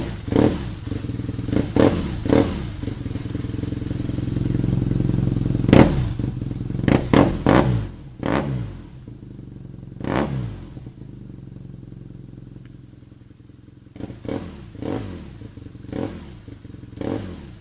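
BMW R nineT's boxer twin engine running through a Jekill & Hyde aftermarket exhaust, blipped repeatedly: a dozen or so short, sharp revs, each falling back to a lower note, with a quieter spell between blips in the middle.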